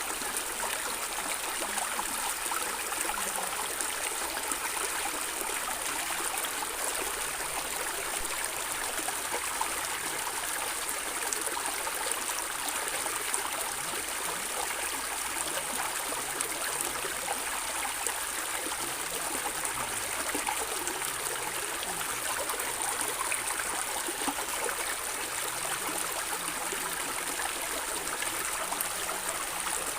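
A stream of water running and gurgling steadily, a constant rushing with small splashes and trickles through it.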